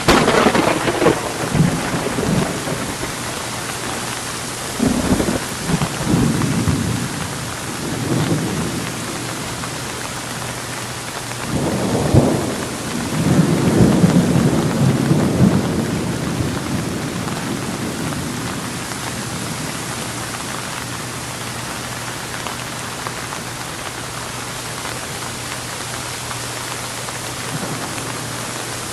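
Steady rain with thunder: a clap right at the start, rumbles about five to eight seconds in, another clap about twelve seconds in that rolls into a long rumble, then only the rain through the second half.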